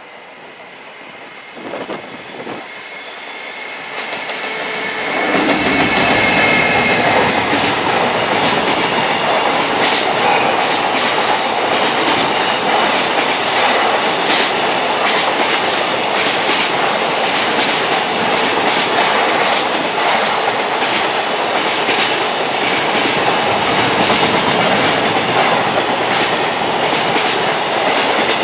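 Freight train passing at speed, its wagon wheels clattering over the rail joints in a long run of clicks. It grows louder over the first five seconds or so as it approaches, then stays loud and steady.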